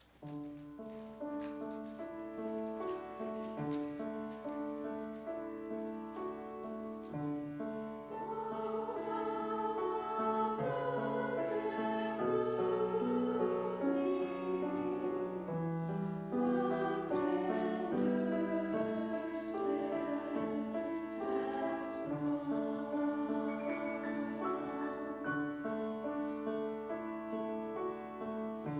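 A choir singing a sacred piece with instrumental accompaniment, held chords moving steadily. It starts suddenly out of quiet and grows fuller about eight seconds in.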